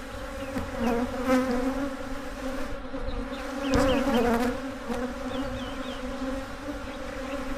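Honeybees buzzing steadily around an opened hive, a continuous hum that swells and fades in places, with a few brief clicks.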